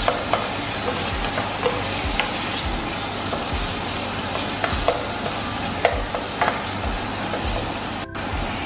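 Onion, garlic and chopped tomato sizzling in oil in a stainless steel frying pan, stirred with a wooden spoon that knocks against the pan every so often. The sound drops out for an instant near the end.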